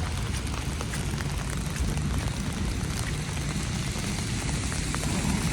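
Steady hiss of wet snow falling, with faint scattered ticks of drops and a low rumble underneath.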